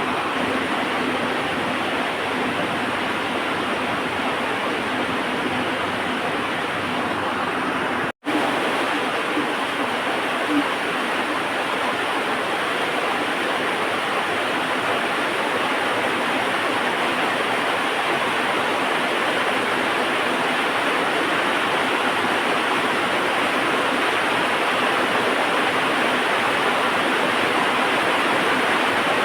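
Heavy rain falling steadily as an even hiss. It cuts out completely for a split second about eight seconds in.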